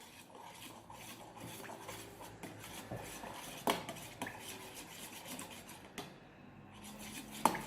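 A spoon stirring and scraping a thick glue-and-water slime mixture in a bowl, with scattered soft clinks and scrapes and a sharper knock about halfway through and another near the end.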